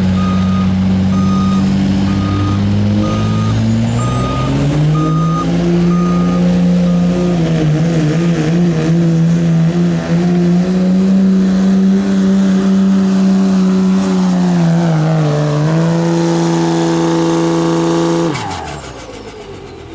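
Diesel pickup engine, likely a Duramax, run hard under load pulling a sled. Its pitch climbs over the first few seconds while a turbo whistle rises, then it holds steady at high revs, dips briefly, and drops away sharply about 18 seconds in as the throttle is lifted. A repeating electronic beep sounds about twice a second during the first five seconds or so.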